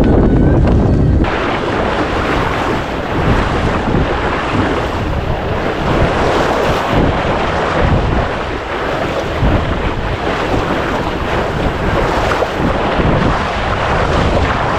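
Wind buffeting the microphone over splashing waves aboard a small sailboat under way, gusting unevenly; the sound changes abruptly about a second in.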